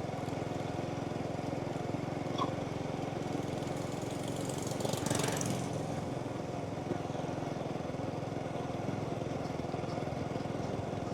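Small motorbike engine running at a steady cruise under its rider, a constant hum, with a brief swell of rushing noise about halfway through.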